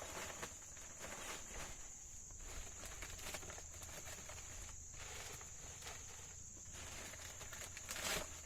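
Crickets chirring as a steady high drone, with scattered short rustles over it and a louder rustle near the end.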